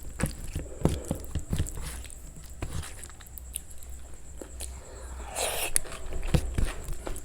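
Close-miked eating: wet chewing and biting with many small smacks and clicks, and one louder crackly crunch about five and a half seconds in.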